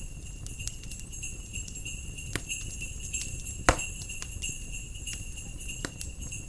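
Jingle bells ringing steadily over a crackling wood fire, with scattered pops and one loud crack about three and a half seconds in, and a low rumble beneath.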